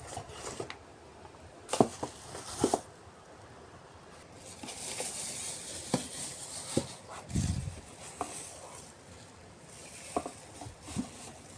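Scattered clicks and knocks of something being handled, with a soft hiss in the middle and a duller thud a little later.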